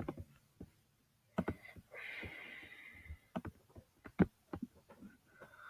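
Several sharp clicks or taps on a computer or tablet while getting a page to load, with a short breathy hiss about two seconds in.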